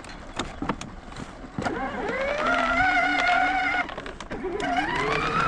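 Electric motor of a child's Power Wheels ride-on four-wheeler whining as it spins up and holds speed, cutting out a little before the middle and spinning up again. A few clicks and knocks come before it.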